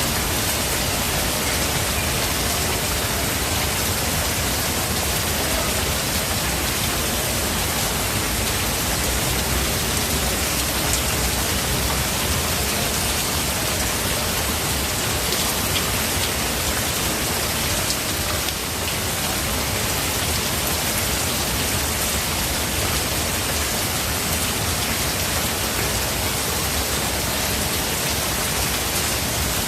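Steady heavy rain falling, an even hiss of drops on leaves and ground.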